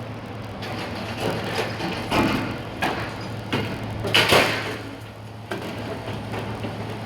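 Building demolition: a heavy machine's engine running steadily under a string of irregular crashes and scrapes of breaking concrete and debris, the loudest about four seconds in.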